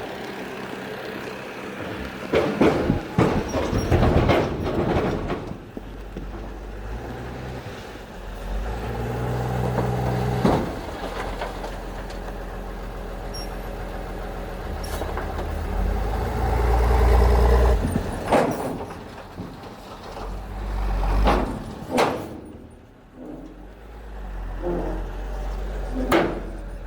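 Diesel engine of heavy earthmoving machinery working, revving up and easing off several times, loudest about two thirds of the way through. Sharp metallic clanks and knocks come through it repeatedly.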